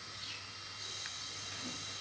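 A few faint, short sparrow chirps over a steady low hum.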